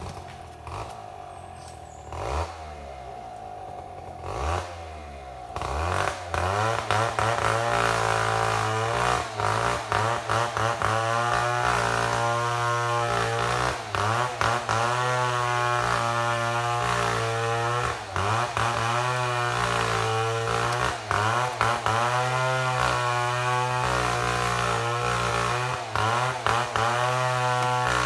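Two-stroke chainsaw milling a mahogany log. It idles with a couple of short blips of the throttle, then about five seconds in it is opened to full throttle and held there under cutting load. Its pitch wavers and dips briefly every few seconds as the chain bites into the wood.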